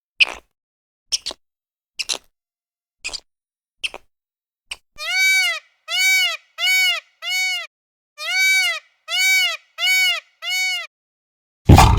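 Animal calls: short sharp clicks about once a second, then eight calls that each rise and fall in pitch, in two runs of four. A loud rough noise cuts in just before the end.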